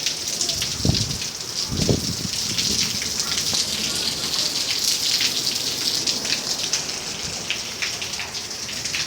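Heavy rain falling steadily, a dense hiss of many drops, with two low thumps about one and two seconds in.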